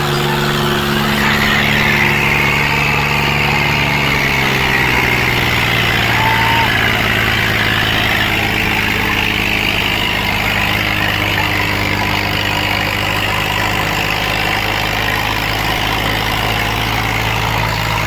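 Diesel tractor engine running steadily, its note shifting about four seconds in.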